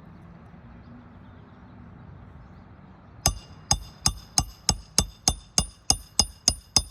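Hammer driving a roofing nail through a shingle. A fast, even run of sharp metallic strikes, about three a second, starts about three seconds in, and each strike rings briefly.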